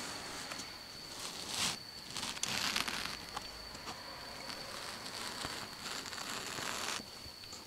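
Quiet handling noise: short rustling and scraping bursts, about 1.5 s in, around 2.5 s and near the end, over a steady hiss with a faint high-pitched whine.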